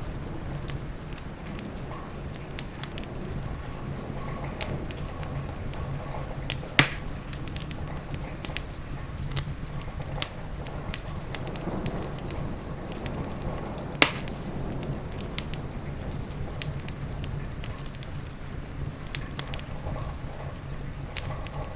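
Wood fire crackling in a fireplace, with frequent small snaps and two sharp, louder pops about seven and fourteen seconds in, over a steady bed of rain.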